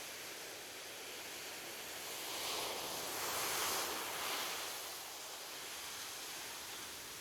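Gentle ocean surf on a beach: a steady wash of waves that swells louder for about two seconds near the middle as a wave comes in, then eases back.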